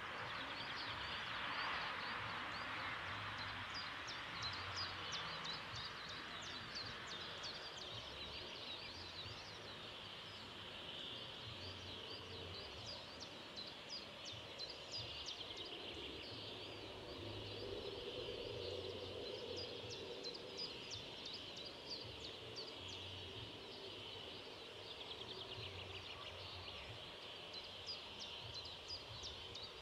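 Small birds singing and chirping over a faint steady background hiss, with many short repeated calls and trills throughout.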